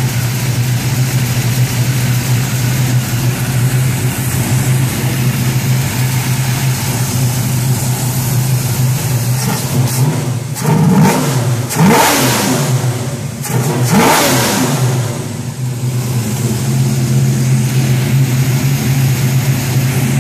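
1971 Chevy Nova's carbureted V8 idling steadily. About halfway through, the throttle is blipped three times in quick succession and the engine revs up and falls back to idle each time. These are throttle checks on a carburetor being tuned to cure a hesitation.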